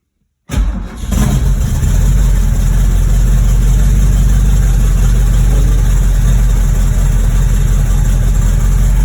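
De Tomaso Pantera's fuel-injected V8 cold-starting: it cranks and catches about half a second in, stumbles briefly, then settles into a steady fast idle.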